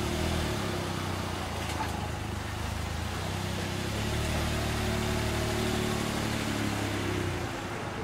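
Suzuki JB64 Jimny's 660 cc turbocharged three-cylinder engine running at low revs through an aftermarket ROSSO MODELLO DUSSEL GT-X muffler as the car creeps along. The note swells a little about halfway through and eases off near the end.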